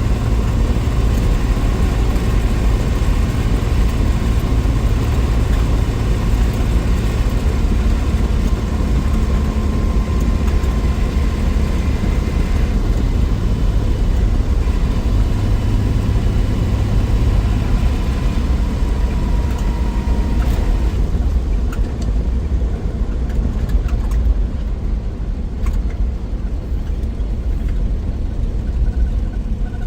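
A 1963 Willys Wagon's Tornado 230 overhead-cam six-cylinder engine running on the move, a steady low engine and road rumble. About two-thirds of the way through, the higher hiss drops away and it gets a little quieter.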